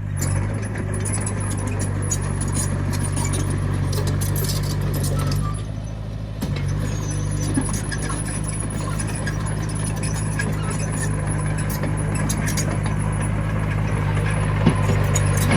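Komatsu mini bulldozer's diesel engine running steadily. It dips for about a second, roughly five and a half seconds in, then picks up again. Scattered clicks and knocks sound over it, with one sharp knock near the end.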